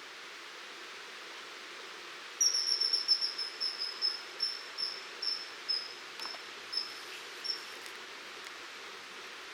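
A bird calling in a series of about fifteen high, thin notes that start rapid and slow down, dropping slightly in pitch, over the steady rush of river water.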